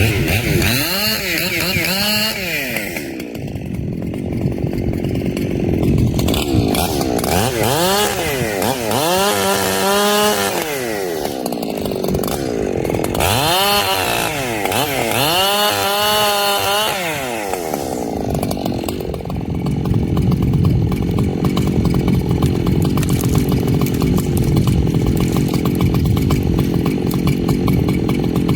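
Echo CS-7310 two-stroke chainsaw revving up and down several times, then running steadily from about two-thirds of the way through.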